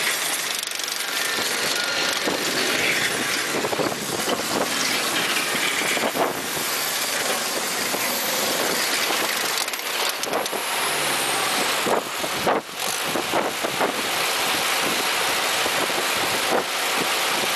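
Heavy machine's engine running steadily, with a few short knocks or clanks.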